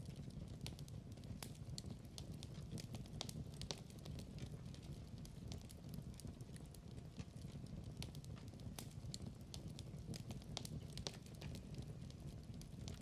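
Wood fire burning in a fireplace: irregular crackles and pops over a soft, steady low rumble of the flames.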